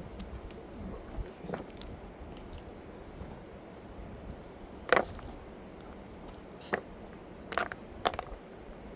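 Scattered sharp clicks and light knocks over a low background hum, the loudest about five seconds in and several more close together near the end.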